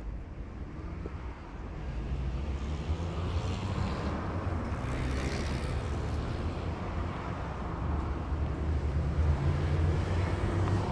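Motor vehicle engine and road noise in street traffic. A vehicle passes with a swell of noise about five seconds in, and an engine's pitch rises near the end as it speeds up.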